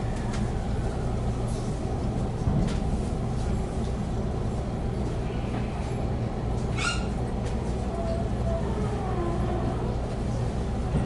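Steady low rumble and hum inside a train car, with scattered faint clicks and a short high squeak about seven seconds in.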